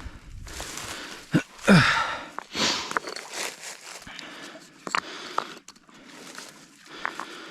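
Footsteps crunching and rustling through forest undergrowth, with a few sharp knocks of stones being handled for a fire ring.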